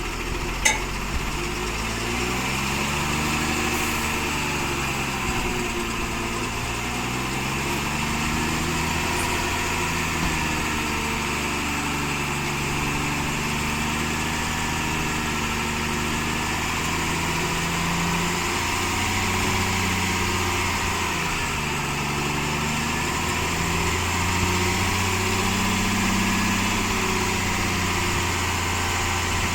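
Diesel engine of a Tata 3718 tipper truck running steadily during unloading, its speed rising and falling over stretches of a few seconds. A single sharp click sounds about half a second in.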